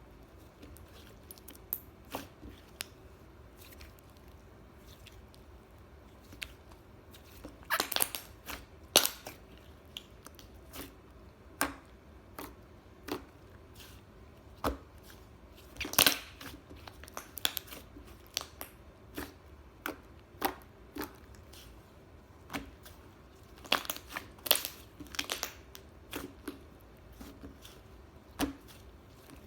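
Hands pressing, stretching and squeezing a puffy white slime, with irregular sharp pops and crackles as trapped air pockets burst. The pops come in scattered singles and in dense clusters every several seconds.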